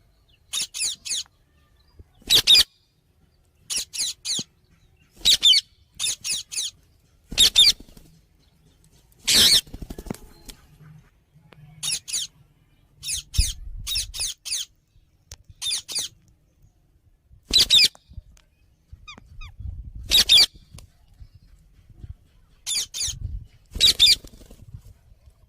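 Indian ringneck parakeet giving short, shrill screeching calls, singly or in quick runs of two to four, repeated every second or two.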